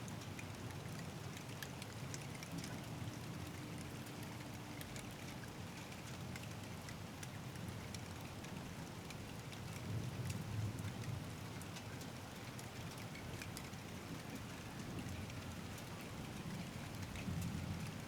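Steady rain falling, with many single drops ticking on nearby surfaces over a low rumble that swells briefly about ten seconds in and again near the end.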